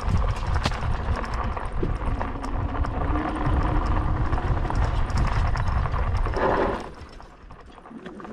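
Wind rumbling on the microphone with rattling and knocking from an e-bike riding over uneven ground; the noise drops off suddenly near the end.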